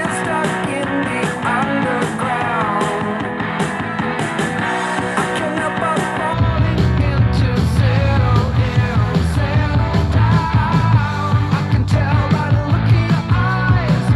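Rock song with singing, played back through a portable Bluetooth speaker and picked up by a microphone. About six seconds in, heavy bass comes in and the music gets louder.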